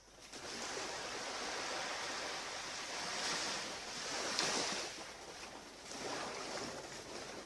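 Surf on a beach: waves washing in, the rush of water swelling a few seconds in, fading, then rising again near the end.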